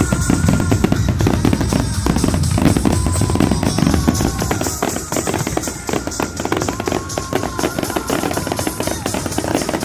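Fireworks grand finale: a dense, rapid barrage of bangs and crackles with no break, over music.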